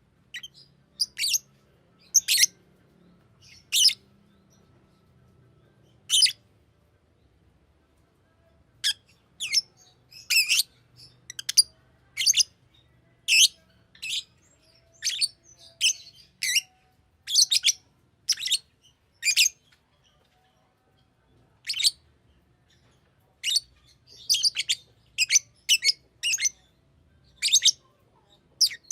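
Green lovebird chirping: short, sharp, high calls, some single and some in quick runs, with a couple of brief pauses.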